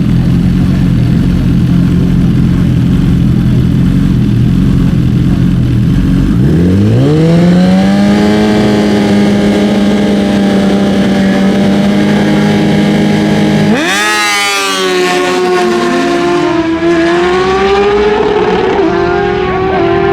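Naturally aspirated drag-racing sport bikes' engines revving up at the start line and holding a steady high note, then launching near the end. The pitch sweeps up and drops back with each gear change as the bikes pull away.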